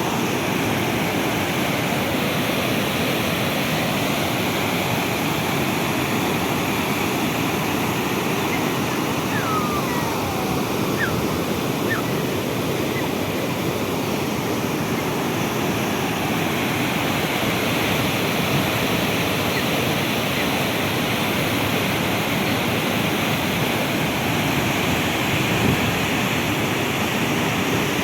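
A river in flood, its water rushing in a steady, unbroken rush.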